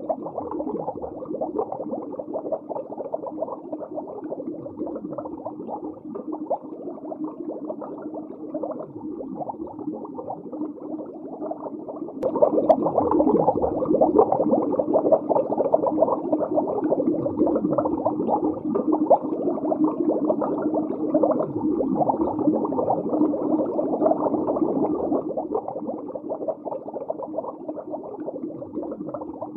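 Muffled underwater ambience: bubbling and gurgling over a steady low hum, stepping up in loudness about twelve seconds in.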